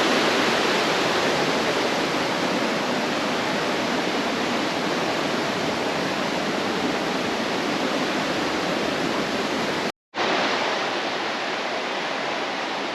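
Steady rush of creek water flowing over rocks. It cuts out for a split second about ten seconds in, then carries on slightly quieter.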